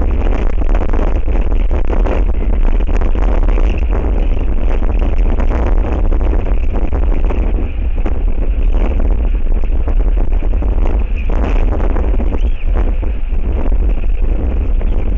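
Strong wind buffeting the nest-cam microphone: a loud, steady rush with a heavy low rumble.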